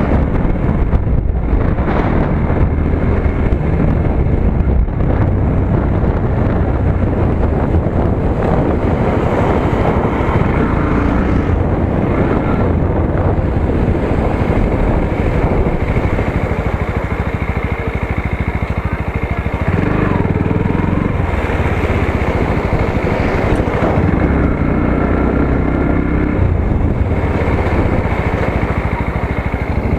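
Motorcycle engine running steadily while riding, with its note rising and falling a few times in the second half.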